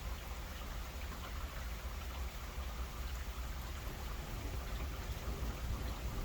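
Rain falling steadily in a thunderstorm, with a constant low rumble underneath.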